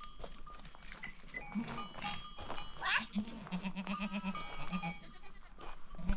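A flock of goats and sheep bleating, with several short calls and one long wavering bleat about halfway through. Small bells on the animals tinkle throughout.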